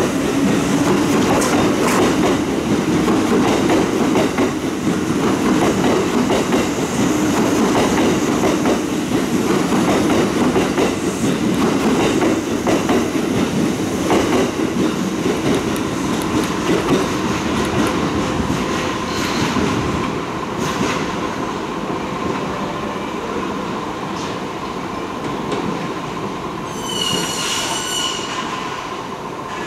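Kintetsu electric commuter train pulling out of the platform and running away along the track, with loud wheel-and-rail noise and clacking that fades after about twenty seconds. A brief high squeal sounds near the end.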